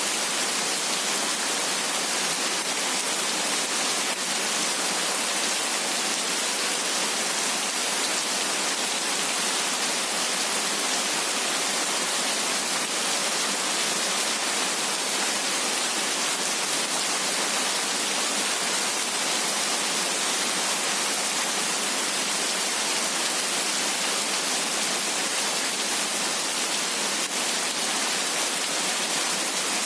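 Heavy rain falling steadily: an even, unbroken hiss, brightest in the high range, with almost no low rumble.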